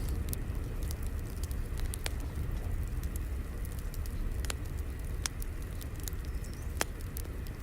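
Wood fire crackling: a steady low rumble of flames with scattered sharp pops, one louder pop near the end.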